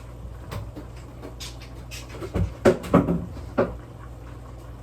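A handful of short, sharp kitchen knocks and clatters a little past halfway, over a steady low hum.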